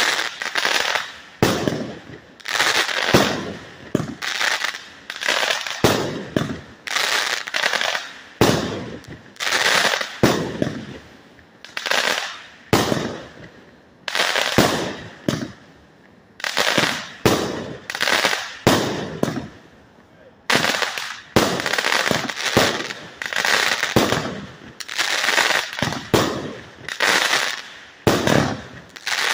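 100-shot consumer fireworks cake firing shot after shot, about one to two sharp bangs a second, each fading out quickly, with a short lull about halfway through.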